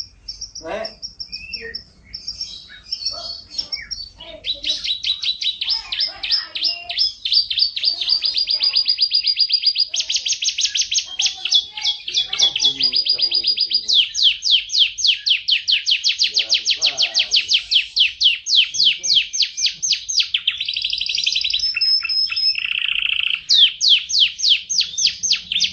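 Yorkshire canary singing a long, unbroken song of fast trills. Each roll of rapidly repeated high notes runs for a second or several before the bird switches to a new trill.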